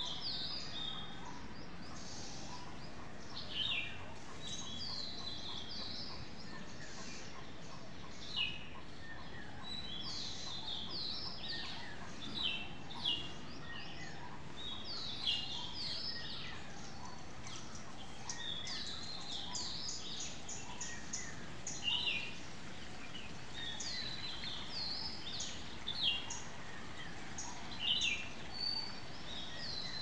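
Birds chirping: many short, high chirps and twitters scattered throughout, a few of them louder, over a steady background hiss.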